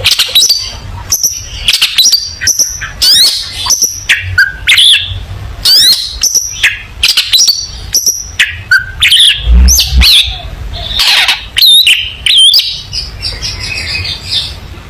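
Long-tailed shrike (cendet) singing in full voice: a fast, loud, varied run of short chirps, harsh rasping notes and quick whistled sweeps, with hardly a pause.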